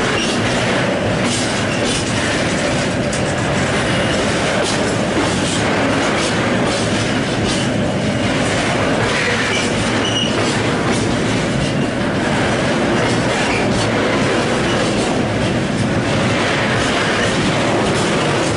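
Freight train of rail tank wagons rolling past at close range: a steady, loud rumble of wheels on the track, with scattered clicks as the wheels pass over the rail joints.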